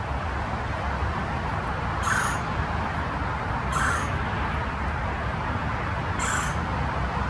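Three short bird sounds, roughly two seconds apart, over a steady low background rumble.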